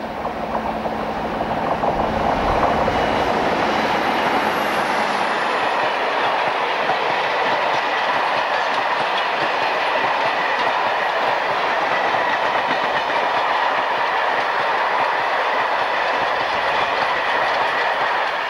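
British Rail Class 47 diesel locomotive passing at speed with a freight train, loudest about two seconds in as the locomotive goes by. It is followed by a long, steady rumble and clickety-clack of the wagons' wheels over the rails, which drops away at the end as the last wagon passes.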